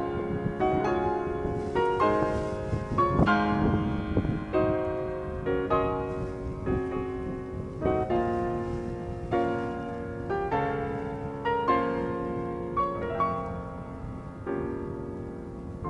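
Background piano music, gentle notes played in a steady flow, over a low rumble of wind.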